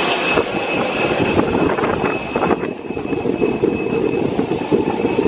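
Steady rumble and rapid rattling inside a moving vehicle, with a thin steady whine over it.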